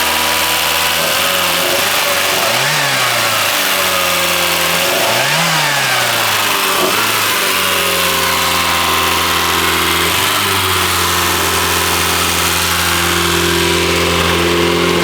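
Volkswagen Cabriolet's fuel-injected four-cylinder engine idling, with the throttle blipped briefly a few times in the first half, the two strongest revs about three seconds apart, before it settles to a steady idle. The owner says it has a bit of a misfire.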